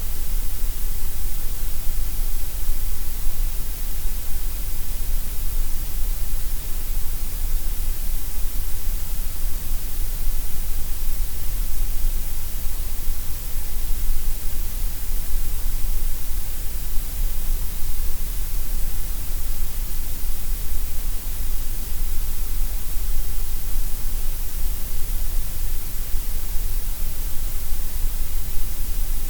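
Gray noise: a steady, unchanging hiss with a strong low rumble and a bright top, thinner in the middle range.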